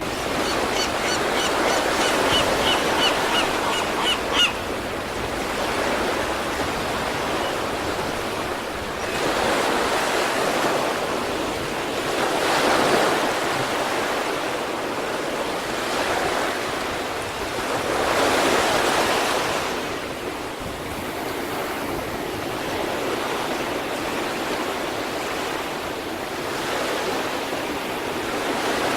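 Sea waves washing onto the East Sea shore, the surf swelling and fading every few seconds. In the first four seconds a bird gives a quick run of short repeated calls over the surf.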